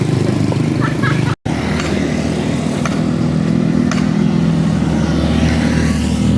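A small engine running steadily close by, with a few faint knocks over it; the sound cuts out for an instant about a second and a half in.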